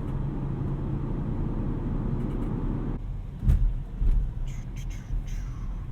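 Cabin sound of an Audi RS6 Avant's twin-turbo V8 and road noise, a steady low drone. About three seconds in the drone suddenly drops, followed by two dull low thumps about half a second apart and a few faint ticks.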